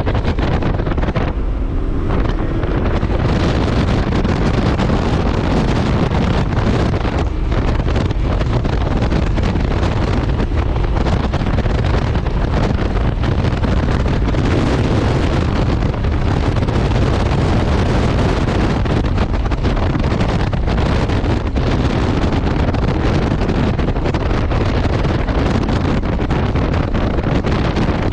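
Heavy wind buffeting on the microphone, steady throughout, over the running engine and road noise of a 2001 Subaru 2.5RS driven at speed.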